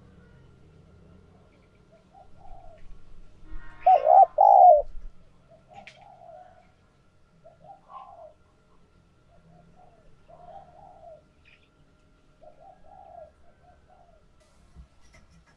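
Spotted dove cooing: a loud two-note coo about four seconds in, with softer coo notes scattered through the rest.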